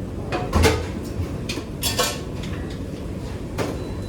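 Kitchen dishes and utensils clinking and knocking about six times, the loudest knock about half a second in, over a steady low rumble.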